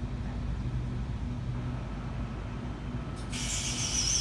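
Steady low rumble of electric trains standing at the station platforms, with a high hiss and thin whistling tone starting about three seconds in.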